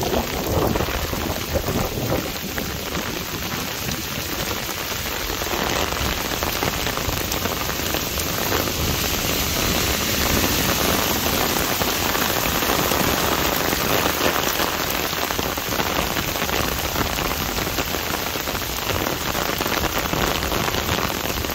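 Heavy storm rain pouring down, a steady dense hiss that grows heavier about five seconds in.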